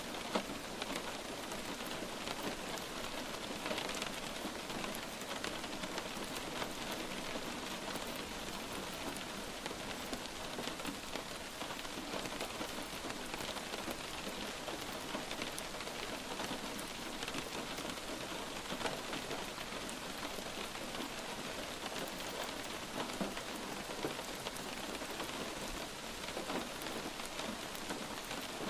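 Steady light rain falling on a surface, an even hiss dotted with many small drop ticks.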